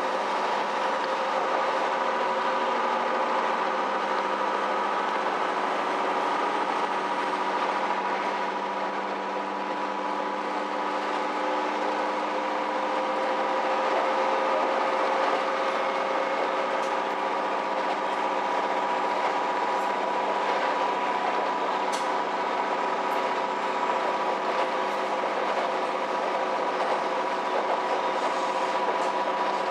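KiHa E130 diesel railcar running along the line, heard from inside the car: a steady drone of engine and transmission whine over rail and wheel noise, with a few sharp clicks from the track.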